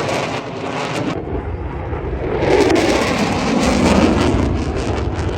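Aircraft flying past, a loud roar that swells to a peak about three seconds in and then fades away.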